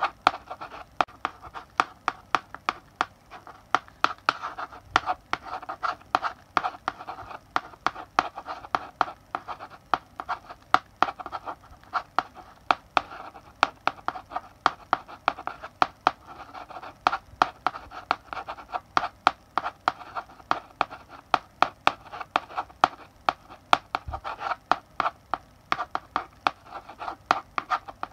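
Chalk writing on a blackboard: a steady, unbroken run of quick taps and short scratches as characters are written stroke by stroke.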